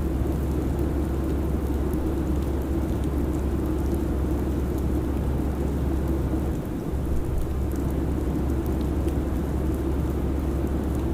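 Steady airliner cabin drone: a low engine and airflow rumble with a constant deep hum, dipping briefly about two-thirds of the way through.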